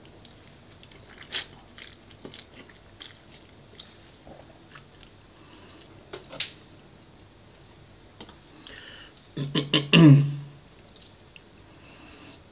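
Close-up eating sounds of a person chewing spaghetti bolognese: scattered wet mouth clicks and smacks. Near the end comes a short, louder throaty vocal sound that drops in pitch.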